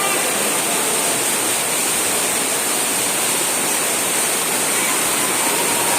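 Steady rushing of running water, an even unbroken noise like a waterfall or pouring water feature.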